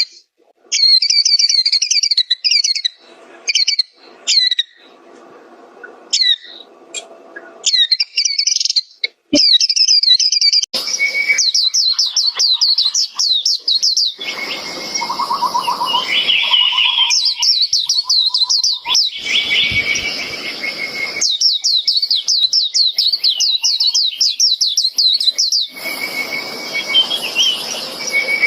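White-eye singing: fast, high twittering phrases, short and broken at first, then a near-continuous run of rapid trills from about ten seconds in.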